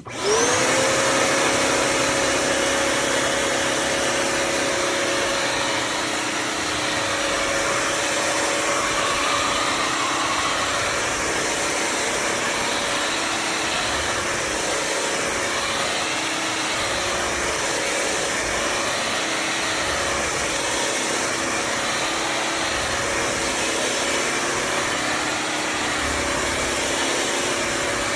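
Bissell CrossWave HydroSteam Pet wet-dry vacuum switched on: its motor spins up with a quickly rising whine, then runs steadily with a loud rush of suction air.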